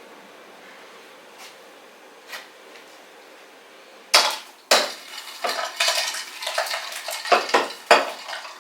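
Dishes and utensils clattering: two sharp clinks about four seconds in, then a run of clinking and rattling.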